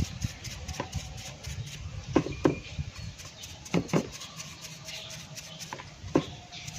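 Irregular sharp taps and knocks, about seven in all, some in close pairs, over a low steady rumble.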